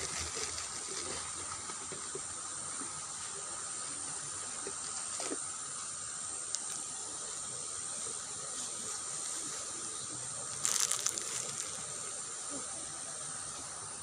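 Steady hiss of shallow water running in a small ditch, with a brief louder burst of noise about eleven seconds in.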